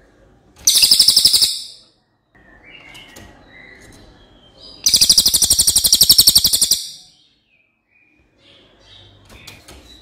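Cililin bird singing: two loud, rapid, high-pitched trills, the first about a second long and the second, near the middle, about two seconds long, with softer chirps between them and near the end.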